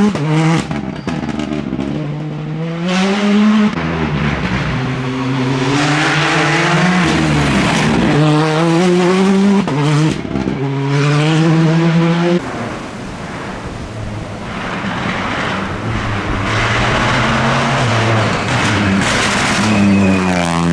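Rally car engines at full stage pace, the revs climbing and dropping sharply again and again through gear changes and braking, with tyre and road noise over them. About twelve seconds in the sound cuts abruptly to a quieter car, whose revs climb again near the end.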